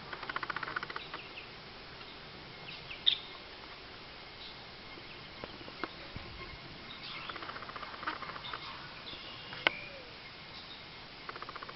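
Eastern bluebirds at the nest: short chirps and calls, with a burst of rapid pulsed chattering at the start and another a little past the middle, and a sharp click near the end.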